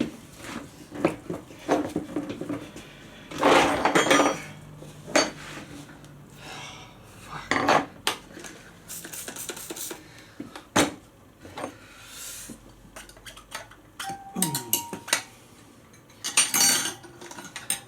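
Metal tyre levers clinking and scraping against a motorcycle wheel rim as the tyre bead is levered on by hand. There are scattered sharp clicks and knocks, with two longer clattering scrapes, one a few seconds in and one near the end.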